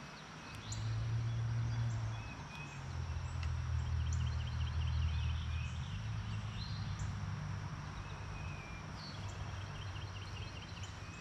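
Birds singing and chirping, with short trills repeated every few seconds, over a steady low hum that is loudest in the first half.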